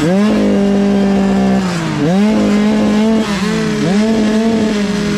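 Engine of a KTM youth motocross bike, heard on board: it revs up and holds high revs, dips briefly twice and climbs back each time.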